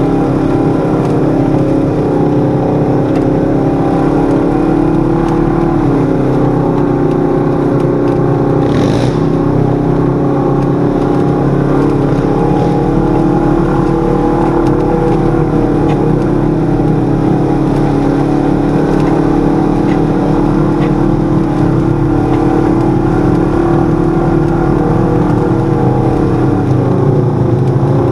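Side-by-side UTV's 1000 cc parallel-twin engine running at a steady cruise, its pitch shifting slightly about six seconds in and again near the end. A short rush of noise comes about nine seconds in.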